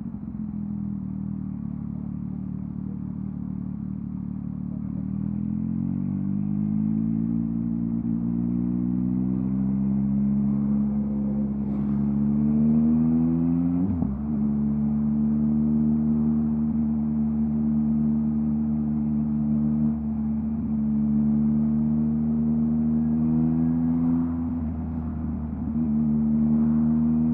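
Yamaha MT-09's 890 cc inline three-cylinder engine through a LeoVince LV Race exhaust, under way. The engine note climbs steadily under acceleration, drops sharply at a gear change about fourteen seconds in, then holds at steady cruising revs, with another brief drop in revs near the end.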